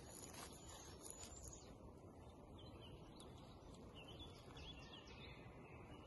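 Faint bird chirps, a few short sweeping notes in the middle, over a quiet, steady low background noise.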